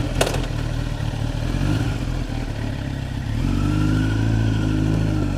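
Kawasaki ZX-10R inline-four engine running just after being started, with a sharp click right at the start. A little over three seconds in, the engine note rises and grows stronger as it is revved.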